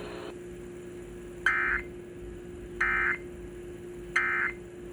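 Emergency Alert System end-of-message data bursts: three short, warbling digital tones about a second and a half apart, marking the end of the severe thunderstorm warning broadcast. A steady low hum runs underneath.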